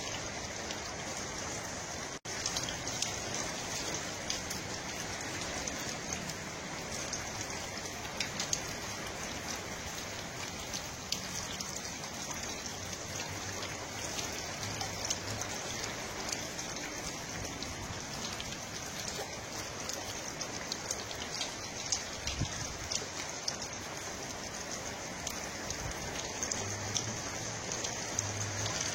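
Steady rain falling, with many small drop ticks over an even hiss, broken by a momentary dropout about two seconds in.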